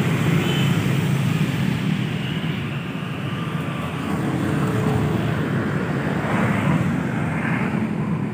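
Steady motor-vehicle noise, a low rumble that eases slightly midway and builds again, as of traffic running on a road.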